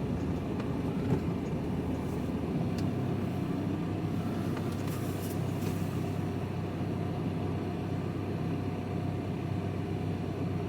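Steady engine and road noise heard inside the cab of a vehicle driving along at a constant speed, with a faint click about a second in.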